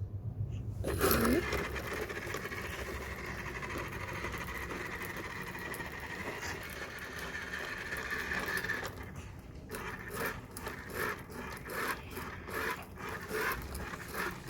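Battery-operated toy garbage truck running: a steady mechanical sound for about eight seconds, then a rhythmic series of short scraping clicks, about two to three a second.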